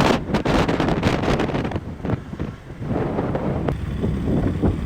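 Wind buffeting the microphone in gusts while riding a KTM 200 Duke motorcycle, over the low, steady running of its single-cylinder engine.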